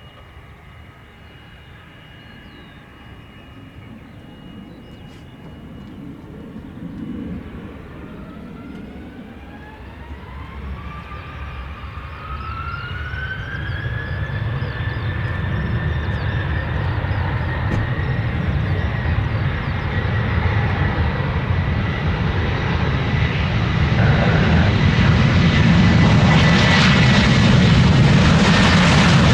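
Jet aircraft's engines spooling up to take-off power: a whine rises in pitch over several seconds, then holds steady while the engine noise grows steadily louder toward the end.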